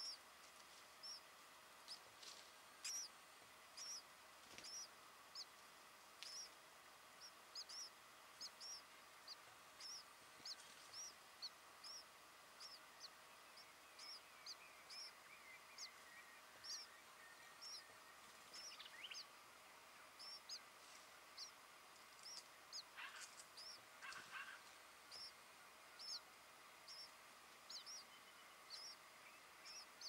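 Faint birdsong: a steady series of short, high chirps, a little more than one a second, with a lower, wavering call about halfway through and two brief harsher notes later on.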